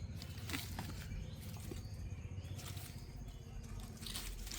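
Faint, scattered light taps and rustles of kittens playing and jumping, over a steady low background hum.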